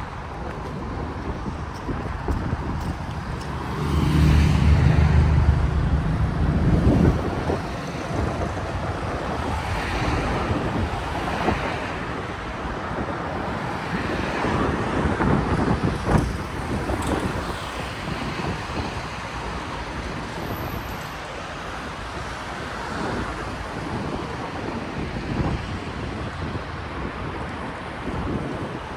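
Street traffic ambience: a steady wash of passing cars, with a motor vehicle's engine passing close and loudest from about four to seven seconds in, and smaller vehicle passes later on.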